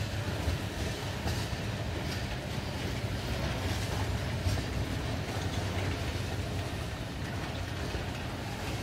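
Freight train cars rolling past on the track: a steady low rumble with a few scattered clicks from the wheels.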